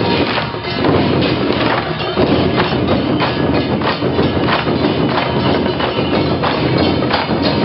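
Loud traditional temple-procession percussion, with many rapid strikes running on without a break.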